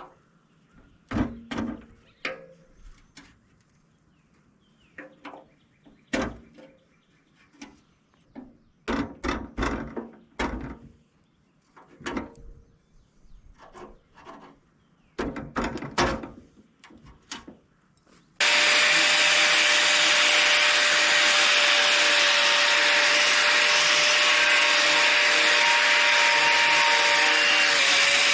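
Small metal parts and tools being handled: scattered sharp clicks and knocks. About two-thirds of the way in, a power wire wheel starts suddenly and runs steadily, a loud scrubbing hiss over a steady motor hum, as it cleans a metal part.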